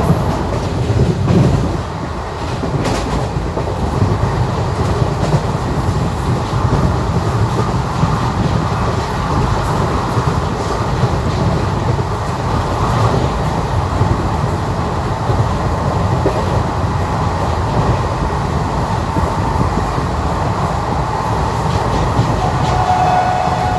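Train running along the track: a steady, continuous rumble of wheels and coaches. A steady high tone comes in near the end.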